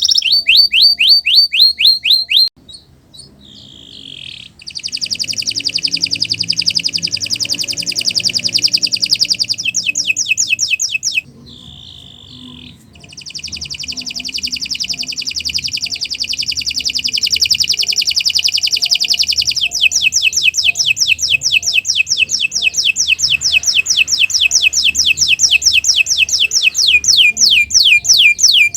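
Domestic canary singing a long, continuous song: fast rolls of rapidly repeated, high downward-sweeping notes, changing from one trill to the next, with two short breaks in the first half.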